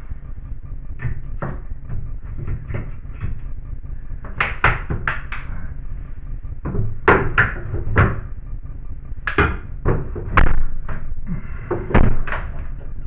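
Irregular knocks and bangs of hammer and pry-bar work on the tub wall, with the sharpest, loudest blows coming about seven to twelve seconds in, over a steady low hum.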